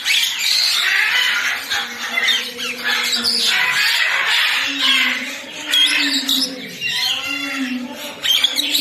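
Birds squawking and chirping, many short shrill calls overlapping, over a low steady hum.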